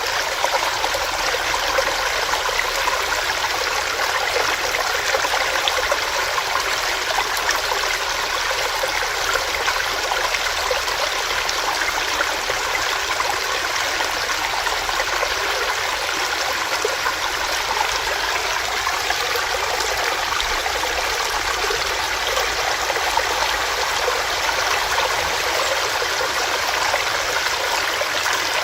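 Small stream of water running over rocks, a steady, even rushing and trickling.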